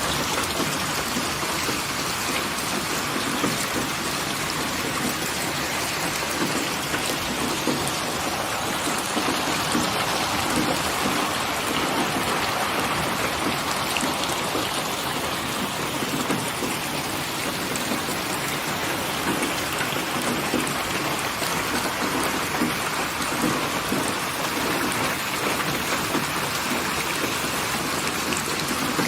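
Steady heavy rain falling, a dense, even patter of drops.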